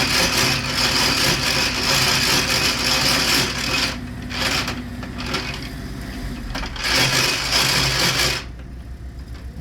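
Machinery clattering loudly in a rapid, rattling run, breaking off and resuming in shorter spells before stopping abruptly about eight seconds in.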